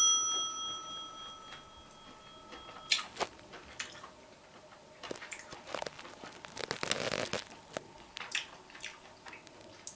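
A sharp click and then a bell-like chime ringing for about three seconds, a subscribe-button sound effect. After it comes quiet chewing of a soft piece of fried nutria tenderloin, with scattered small mouth clicks.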